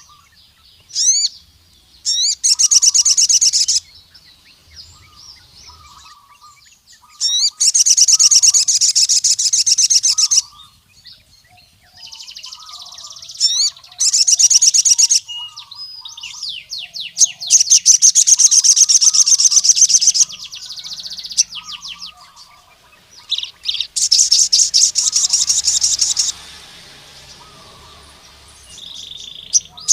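Crimson sunbird (sogon) singing: loud bursts of rapid high-pitched trills, each about one to three seconds long, repeated every few seconds, with fainter, lower chirps between them.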